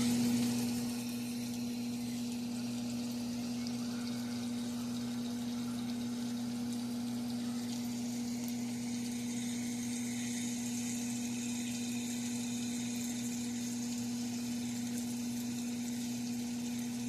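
A steady low hum with a faint hiss over it, the hiss from a small wood fire burning in a barbecue pit.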